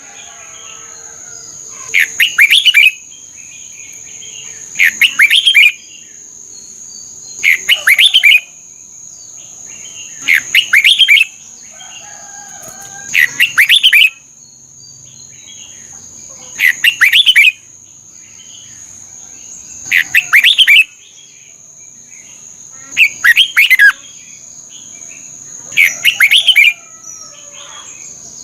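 Red-whiskered bulbul singing a loud, short song phrase about every three seconds, each lasting about a second, over a steady high-pitched whine.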